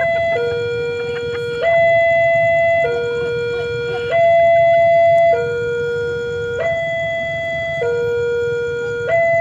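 Railway level-crossing warning alarm sounding a steady electronic hi-lo two-tone, switching between a low and a higher tone about every second and a quarter.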